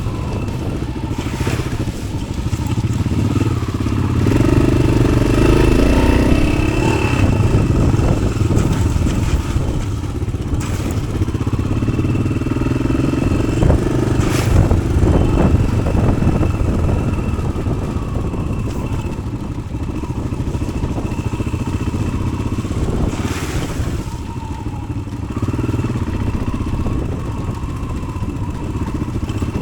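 Yamaha XT600's single-cylinder four-stroke engine running through an aftermarket Arrow exhaust as the bike is ridden off-road, with a few sharp knocks and clatters scattered through.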